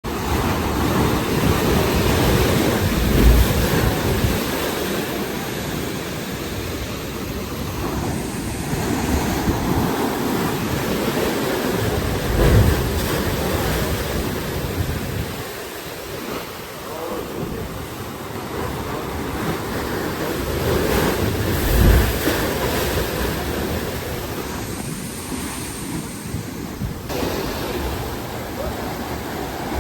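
Ocean surf breaking against a rocky shore, swelling to a heavy low crash about every nine seconds, three times, with wind buffeting the microphone.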